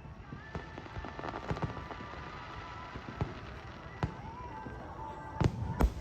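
Fireworks going off: scattered bangs over a steady crackle, with two louder bursts near the end.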